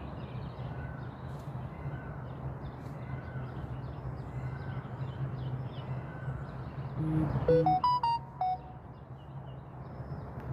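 A short electronic chime of a few notes stepping upward, like a phone app's alert, sounds about seven seconds in. Around it are a steady low hum and faint bird chirps.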